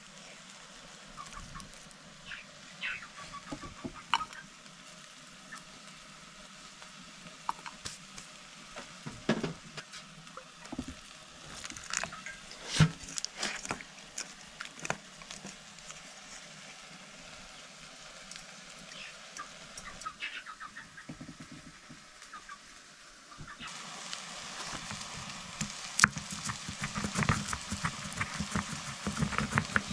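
Scattered light knocks and clatter of kitchen work, then, near the end, food starts frying in a pan: a steady sizzling hiss with the quick taps and scrapes of stirring.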